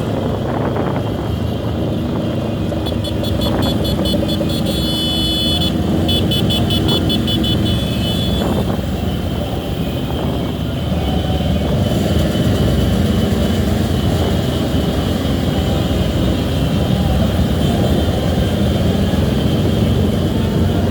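Motorcycle and car engines running in dense traffic, a loud steady drone. A held steady tone sounds for about six seconds starting a couple of seconds in, and a fast high pulsing sound comes over it for a few seconds.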